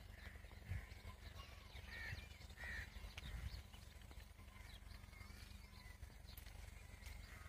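Birds giving a few short calls, mostly in the first three seconds, over a faint low rumble.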